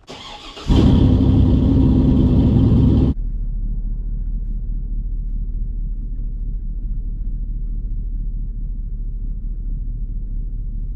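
A vehicle engine revving loudly for about two and a half seconds, then dropping abruptly to a steady, muffled low rumble.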